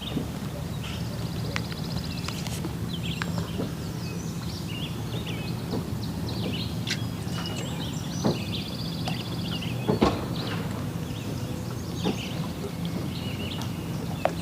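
Several songbirds chirping, with a couple of rapid trills, over a steady low hum and a few short sharp clicks.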